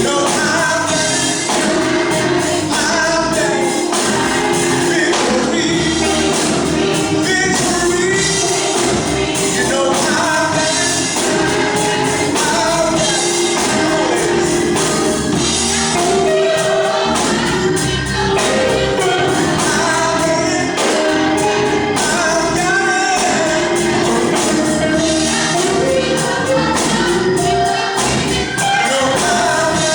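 Gospel music with a choir singing over a steady beat, a tambourine among the instruments.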